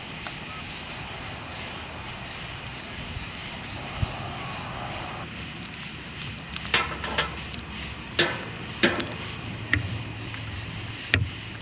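Dinner preparation: a steady hiss, with a series of sharp clacks from about halfway on, the knocks of utensils on cookware.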